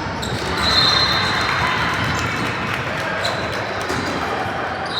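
Youth basketball game in a gym: a ball bouncing and knocking repeatedly over a general hall din, with a steady high whistle-like tone for about a second and a half near the start.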